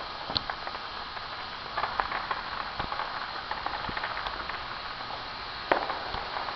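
Distant fireworks display: a steady crackling hiss with scattered sharp pops, the loudest pop near the end.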